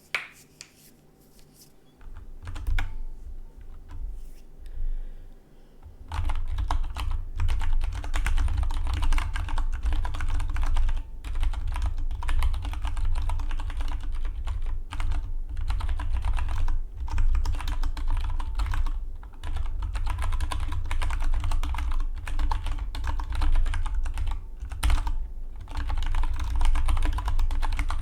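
Dygma Defy mechanical split keyboard being typed on: a few scattered keystrokes, then fast, continuous typing from about six seconds in.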